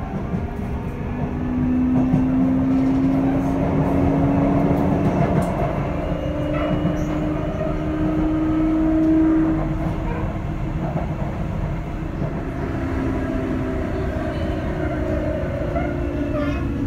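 Sotetsu 8000 series electric train running at speed, heard from inside the car. Wheels and rails rumble under a steady pitched whine from the motors and right-angle cardan gear drive; the whine rises slightly and then eases off, with a few faint clicks from the track.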